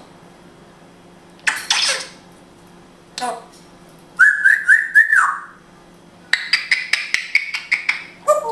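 African grey parrot vocalizing. It gives a rough squawk and a short call, then a run of whistled notes, then a fast series of clicks over a whistled tone, and ends with another short call.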